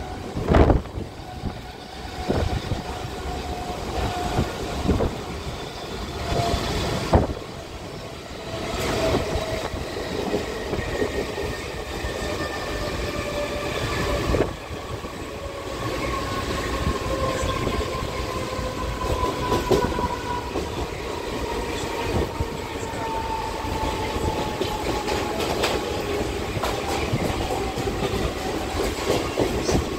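Mumbai suburban electric local train heard from on board while running, its wheels clattering over rail joints. A faint whine sits over the rumble and slowly falls in pitch through the second half.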